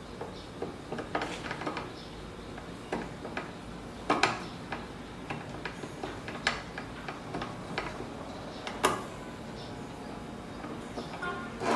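Scattered light clicks and knocks of metal parts and hand tools being handled while fitting a CNC Z-axis assembly, with two sharper knocks about four seconds in and near the nine-second mark.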